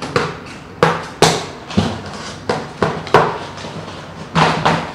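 Packing string on a cardboard box being cut and pulled off: a series of about seven sharp knocks and scrapes.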